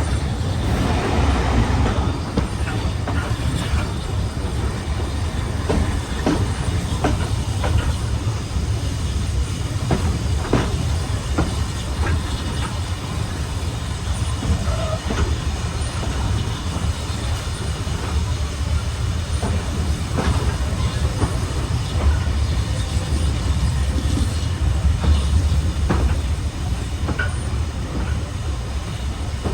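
Railway train running steadily along the track: a continuous low rumble with wheels clicking over rail joints now and then.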